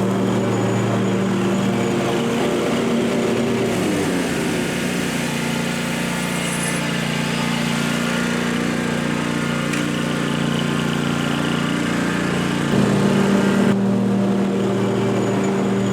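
Small engine of lawn-care equipment running steadily, its pitch gliding lower about four seconds in and stepping back up about three seconds before the end.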